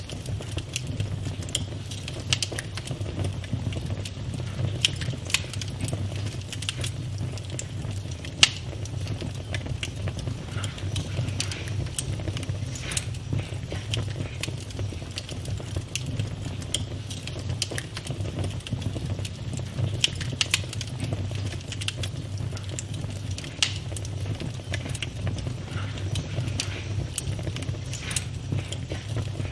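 Campfire crackling: irregular sharp snaps and pops of burning wood over a steady low rumble of the flames, with a few louder pops standing out, the strongest about eight and twelve seconds in.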